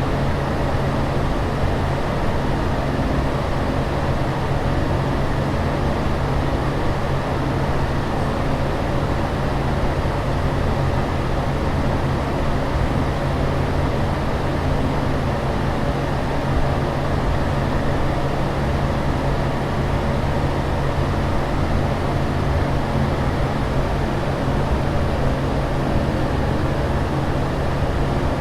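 Steady, unchanging aircraft cabin ambience: an even rushing noise, heaviest in the low end, with a low hum under it.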